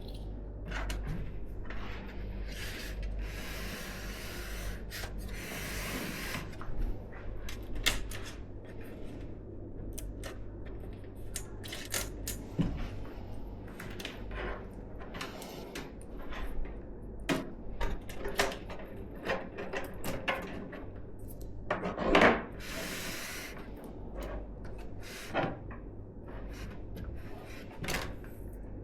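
Hands handling computer parts and packaging: scattered clicks and taps of plastic and metal pieces, with stretches of rustling about three to six seconds in and again near the middle of the second half, the loudest about 22 seconds in.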